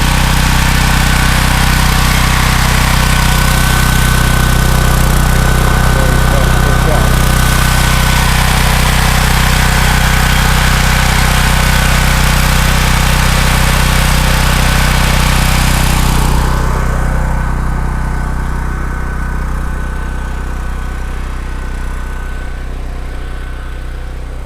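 Gasoline generator engine running at a steady, constant speed with an even hum. About two-thirds of the way through the sound grows duller and a little quieter.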